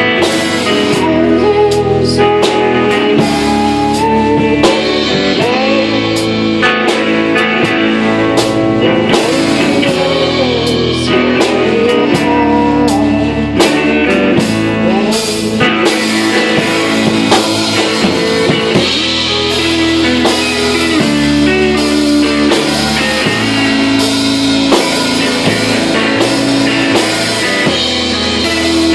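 Live band playing a blues-rock song, led by guitar with drum kit underneath; the music is loud and continuous.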